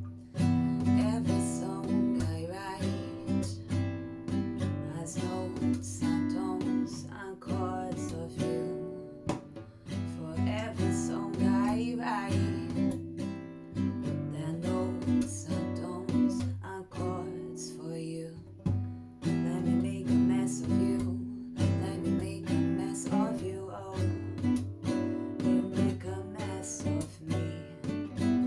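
Acoustic guitar strummed in a steady rhythm, playing the accompaniment of a slow original song.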